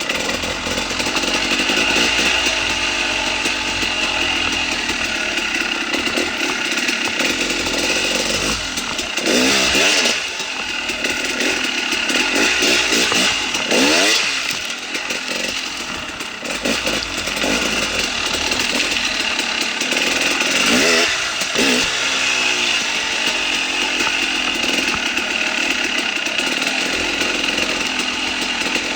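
KTM 300 XCW single-cylinder two-stroke dirt bike engine running under way, its revs rising and falling several times, most clearly about ten, fourteen and twenty-one seconds in.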